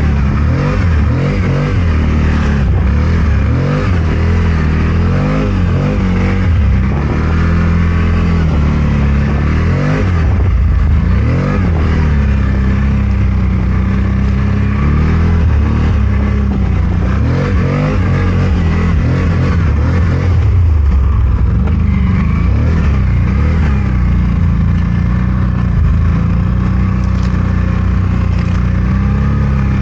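CFMOTO Gen 3 1000's V-twin engine running under load through deep snow, its revs rising and falling again and again as the throttle is worked.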